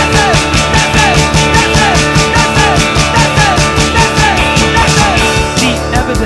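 Alternative rock band playing an instrumental passage: driving drums with fast, even cymbal strokes under a short falling phrase that repeats over and over. The cymbal strokes drop away near the end.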